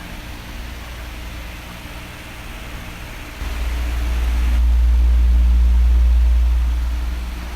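Oscillating electric fan running: a steady hiss of moving air over a faint motor hum. A low rush of air swells about a third of the way in, peaks, and fades near the end as the fan head sweeps toward the microphone and away again.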